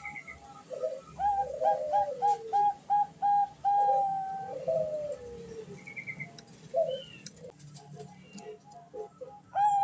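Female Bangkok perkutut (zebra dove) cooing, a call used to lure males: a fast run of short, clipped notes, several a second, broken by one longer held note and slurred falling notes, then softer notes near the end.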